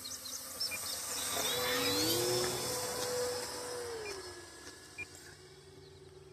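Electric RC warbird flying past: the whine of its motor and propeller rises in pitch, swells to its loudest about two seconds in, then drops in pitch and fades after about four seconds.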